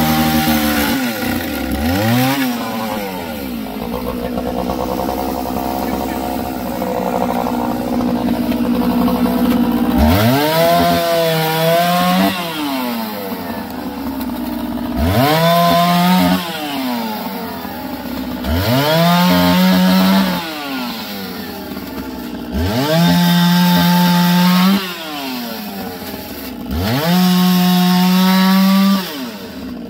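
Two-stroke chainsaw running unevenly at part throttle. From about ten seconds in it is revved up to full throttle five times, each burst held about two seconds before dropping back.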